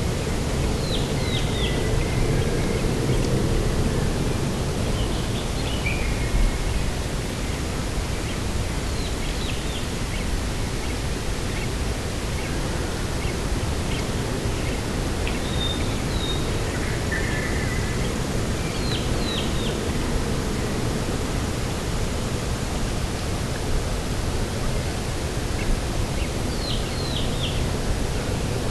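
Steady rushing of wind and sea on a coast, with birds giving short, high, falling chirps in quick runs of three or four, several times over.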